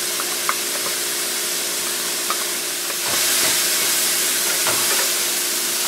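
Diced bell peppers, mushrooms and zucchini sizzling in hot olive oil in a skillet, with a couple of faint ticks in the first few seconds. About three seconds in, a wooden spoon stirs the vegetables and the sizzle grows louder.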